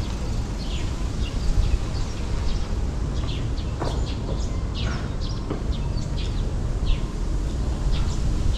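Small birds chirping, many short high calls in quick succession, over a steady low rumble.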